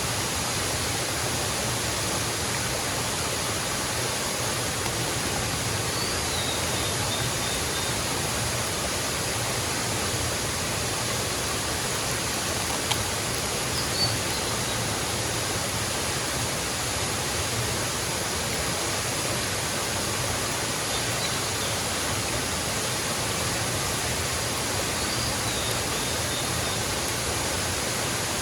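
Waterfall rushing steadily, a constant even wash of falling water, with two light clicks around the middle.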